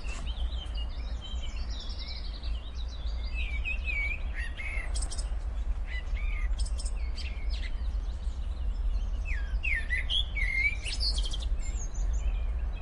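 Wild birds chirping and singing: many short calls that glide up and down, over a steady low hum.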